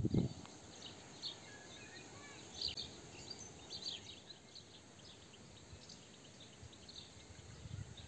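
Small birds chirping faintly at scattered intervals over a soft outdoor background hiss.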